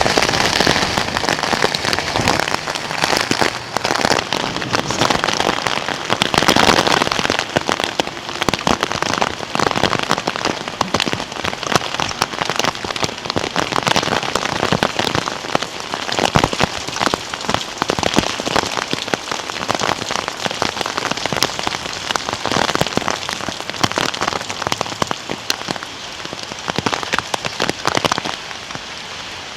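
Rain falling steadily, a dense hiss with many separate drops ticking close by.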